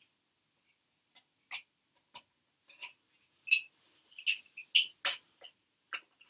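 Duplo plastic track pieces being handled and fitted together, giving scattered light plastic clicks and knocks. The taps come more often in the second half.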